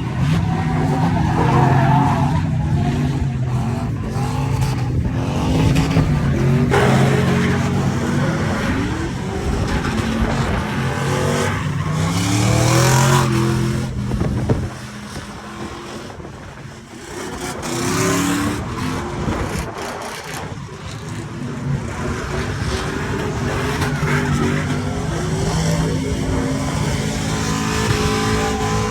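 Truck engines revving hard, their pitch climbing and falling repeatedly, with a brief drop in loudness about fifteen seconds in.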